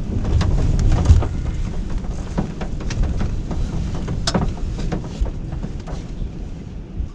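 Gale-force wind buffeting the microphone in a storm, a rough low rumble with scattered sharp taps, loudest in the first second or so and easing slightly after.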